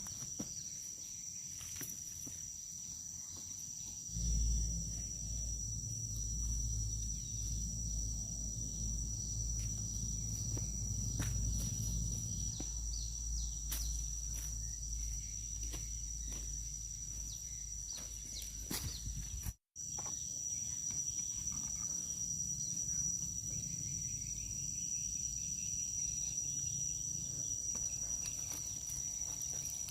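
Insects shrilling in a steady, unbroken high tone. A low rumble sits under it for the first two-thirds, and the sound drops out for an instant at a cut.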